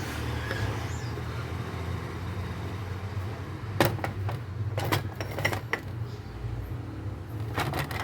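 Small metal parts of a starter motor clicking and knocking as they are handled and fitted together, a few sharp clicks in two clusters in the second half, over a steady low hum.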